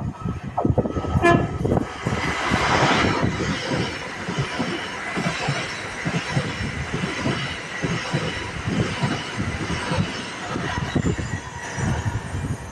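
A train passing on the line, a steady rush of wheel-on-rail noise and rumble, with a short horn toot about a second in.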